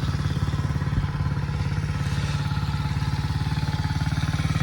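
Tao Tao DB14 110cc pit bike's single-cylinder four-stroke engine idling with a steady, even putter.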